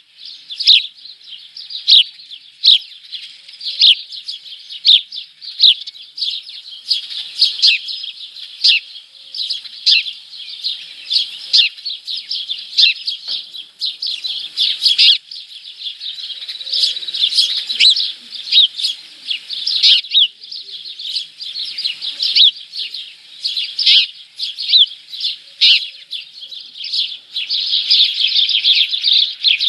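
Small birds chirping inside a nest box: a steady stream of short, high chirps, coming thicker and louder near the end.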